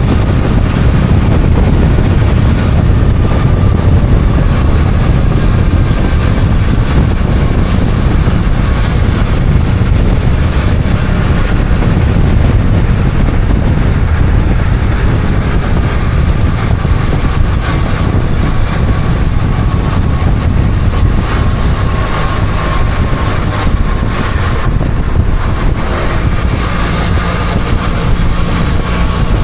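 BMW F800GS parallel-twin engine running steadily while under way, mixed with heavy wind rushing over the microphone. A steadier engine tone comes through more clearly near the end.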